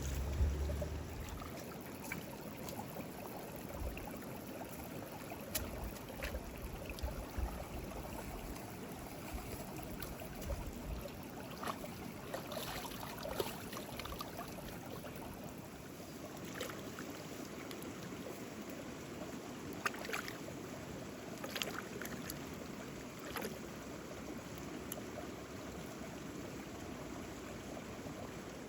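Steady rushing noise like flowing stream water, with scattered light clicks and knocks. Low wind rumble on the microphone fades out after about ten seconds.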